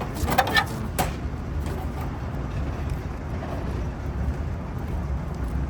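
Steady low rumble of machinery or traffic, with a short clatter of metal clinks near the start and one sharp click about a second in.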